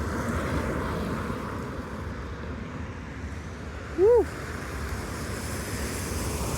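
Road vehicle noise: a steady rush of tyres on wet pavement over a low engine rumble.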